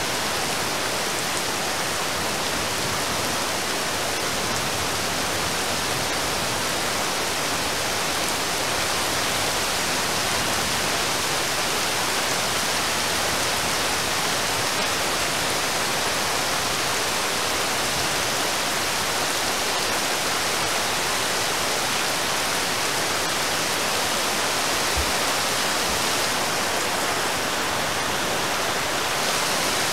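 Steady rain falling on a river's surface, an even, unbroken hiss.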